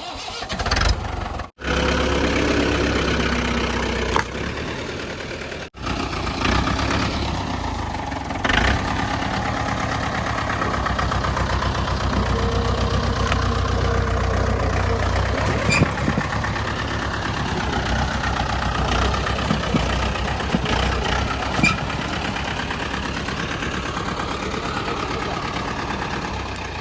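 Mahindra 575 tractor's diesel engine running steadily under load in the mud, cut off twice for a moment in the first six seconds.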